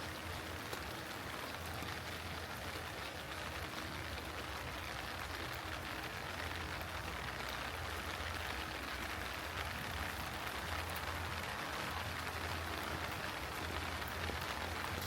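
Heavy rain falling steadily: a dense even hiss of drops hitting surfaces, with fine individual drop ticks, growing a little louder about halfway through.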